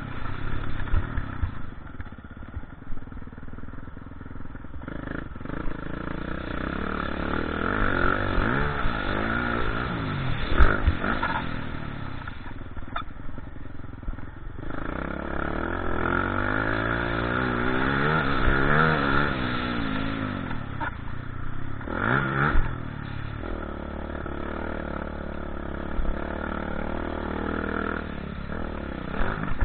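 Motocross bike engine revving, its pitch repeatedly climbing and dropping as the throttle is worked, with a few sharp clattering knocks along the way.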